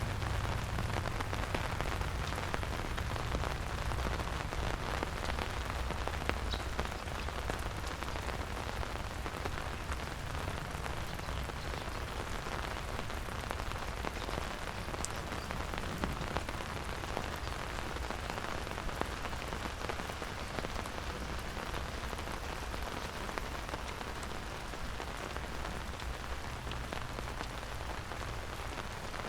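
Steady rain falling on surfaces, a dense patter of many small drop ticks, with a low rumble underneath.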